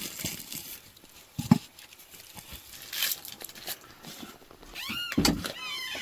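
A sharp knock about a second and a half in, then near the end an animal calls several times in quick succession, each cry rising and falling in pitch.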